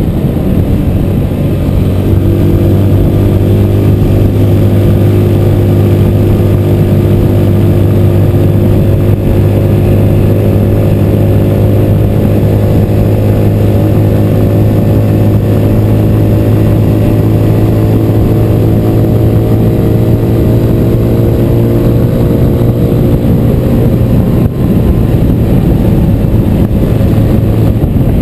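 Motorcycle engine running at highway cruising speed, its note holding steady with a slow climb in pitch through the first half and a slight easing later, over a constant rush of wind and road noise.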